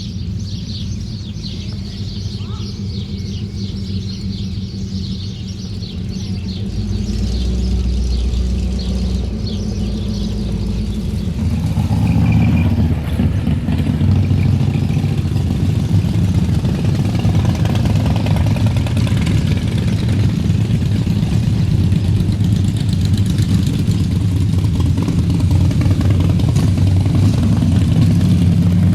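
Motorcycle engine running steadily, getting louder about twelve seconds in, with birds chirping over it in the first several seconds.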